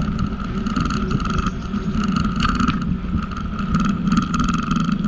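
Steady running noise of a bicycle being ridden along a trail, with wind on the microphone and a constant mid-pitched hum from the moving bike.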